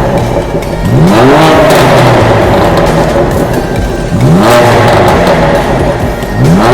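BMW M4's twin-turbo inline-six with an Akrapovic titanium slip-on exhaust, revved hard three times, each rev a quick rising sweep that then falls back.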